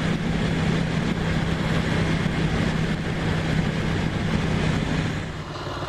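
Ducati motorcycle's V-twin engine running under way with steady rush of wind, easing off a little before the end as the bike slows toward an idle.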